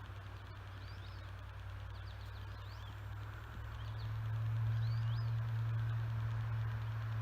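Small birds chirping in short, scattered calls over a steady low hum that swells about four seconds in.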